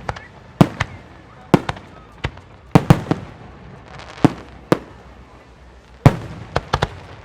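Aerial fireworks shells bursting at a professional display: about fifteen sharp booms at irregular intervals, several in quick clusters of two or three, each with a brief rumbling tail.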